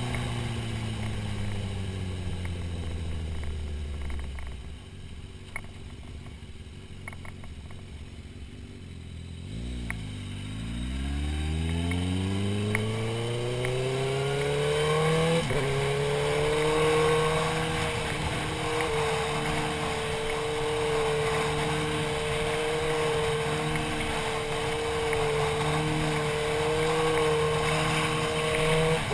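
Motorcycle engine heard from the rider's helmet: it slows down, sits quietly at low revs for several seconds, then accelerates with a rising pitch from about ten seconds in, shifts gear about fifteen seconds in, and settles into a steady cruise with wind rushing past.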